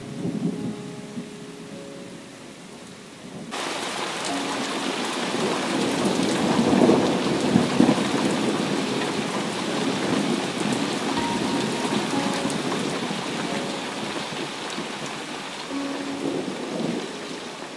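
Rain falling on wet ground. About three and a half seconds in it cuts abruptly from a lighter patter to a dense, steady downpour, and a rumble of thunder swells through the middle.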